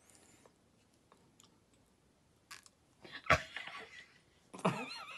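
A person chewing a large mouthful of chocolate banana cake. There is a sharp click about three seconds in, and a muffled voice sound through the full mouth near the end.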